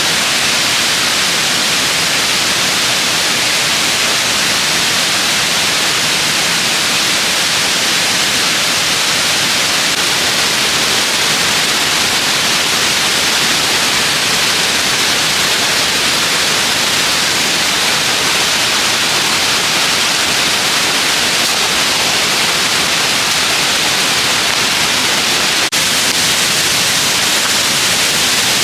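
Waterfall rushing, a loud, steady, unchanging hiss of falling water, with one tiny click near the end.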